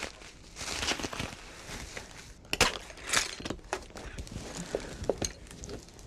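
Packing material being pulled apart and crushed by hand as a parcel is unpacked: rustling and crunching with scattered clicks, and a sharp snap about two and a half seconds in.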